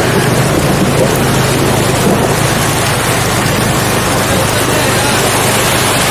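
Traffic moving through waterlogged streets: a steady rush of water and tyre noise under a low engine hum that fades about halfway through.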